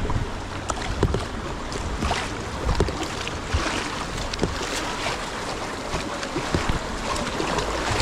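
River water rushing past a kayak, a steady noisy wash with scattered short splashes and drips.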